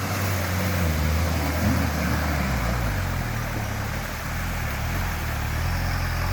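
Off-road 4x4's engine running under load and revving as it drives through a deep mud pit. The pitch rises and falls in the first few seconds, then holds steadier.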